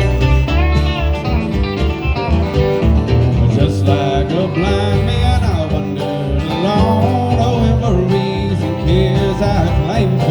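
Country-bluegrass band music, an instrumental passage led by acoustic guitar with gliding melody notes over a steady bass.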